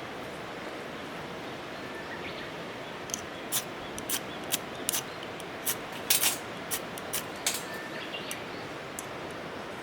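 Steady rushing of a river, with a run of about a dozen sharp, irregular clicks or snaps starting about three seconds in and stopping near the end.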